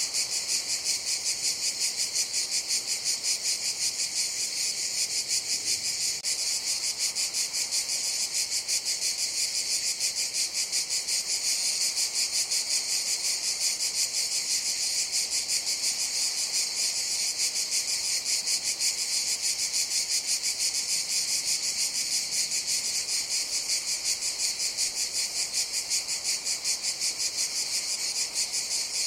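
A chorus of cicadas buzzing: a dense, high-pitched, unbroken drone that pulses rapidly at about four beats a second.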